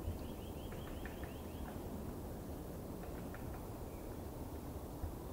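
Birds calling outdoors: a quick run of short, arched chirps early on, then scattered single chirps, over a steady low background rumble.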